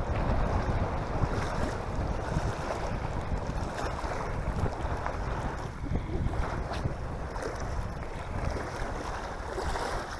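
Wind buffeting the microphone: a gusting low rumble with a rushing hiss above it.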